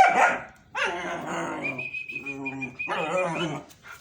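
German Shepherd dog whining and yelping: a short cry at the start, then a long, wavering whine. A steady high whistle-like tone runs over the middle of it.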